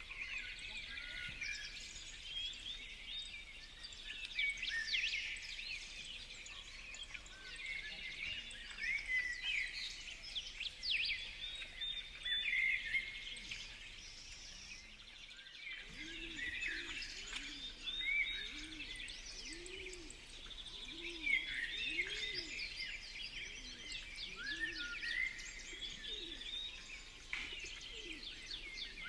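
A busy chorus of small songbirds chirping and twittering over each other. After a short break about halfway through, low pigeon cooing joins in, repeating roughly once a second.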